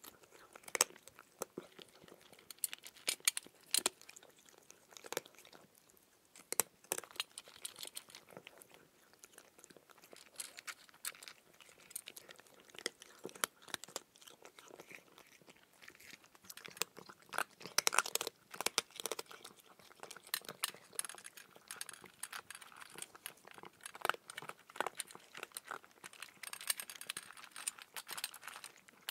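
Calico cat chewing dry kibble: irregular sharp crunches with short pauses between mouthfuls, coming thickest a little past the middle.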